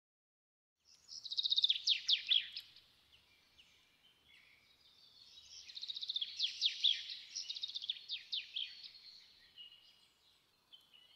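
Small songbirds singing quick runs of high, falling chirps, starting about a second in, easing off and then swelling again in a second burst.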